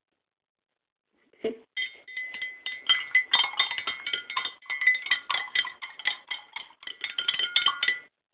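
A spoon stirring fast in a glass container of water, clinking rapidly against the sides with a ringing tone. It starts with a knock about a second and a half in and stops abruptly near the end.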